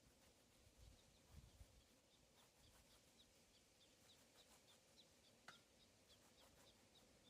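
Faint bird chirping: a short high note repeated about three times a second, with one sharper call about halfway through. Over it there are a few low rumbles of wind on the microphone.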